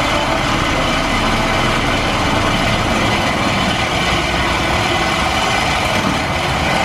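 A car engine running steadily at idle through its exhaust, a loud, even sound with no revving.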